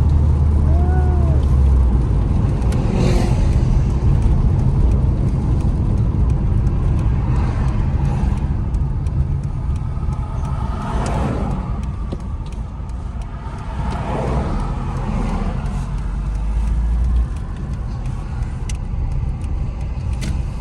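Car driving along, heard from inside the cabin: a steady low rumble of road and engine noise, with faint voices for a moment about halfway through.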